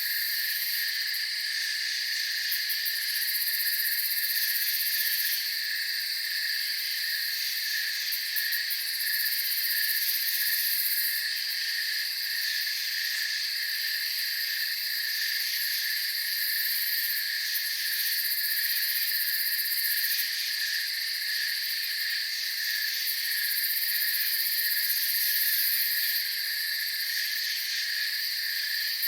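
A night chorus of crickets chirring steadily, with several overlapping high-pitched layers that never break.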